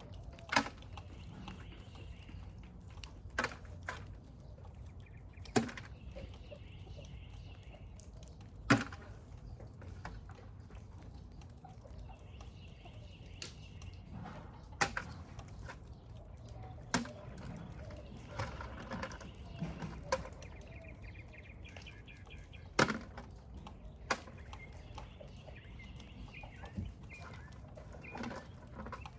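Snails dropped one at a time into a bucket, each landing as a sharp click a few seconds apart, with chickens clucking faintly in the background.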